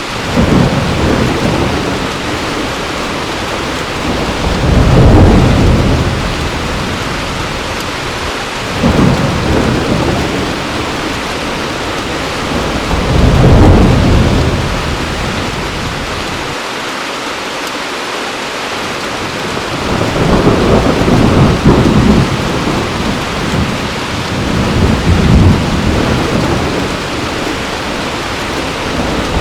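Heavy rain pouring steadily, with low thunder rumbling in about six rolls, one every four seconds or so.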